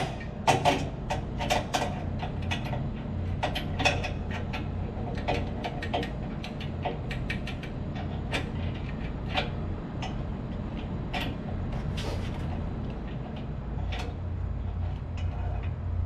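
Irregular light metal clicks and knocks from hand work with tools on an electric motor's shaft coupling during alignment, over a steady low machinery hum.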